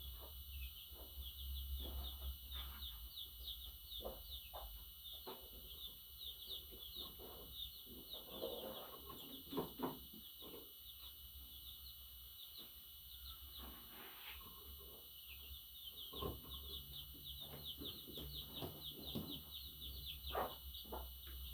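Budgerigar chirping: rapid strings of short high chirps in two long runs, thinning out in the middle, with scattered clicks.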